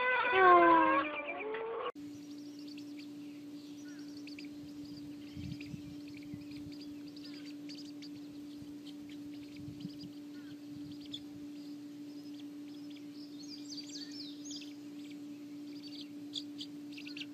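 Faint, scattered high bird chirps over a steady low hum, with a cluster of chirps near the end. The first second or so holds louder pitched calls.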